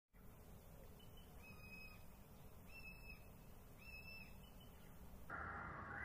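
A small bird giving three faint, short, level whistled notes about a second apart, with a fainter shorter note just before them. A little after five seconds the sound switches abruptly to a steady hiss.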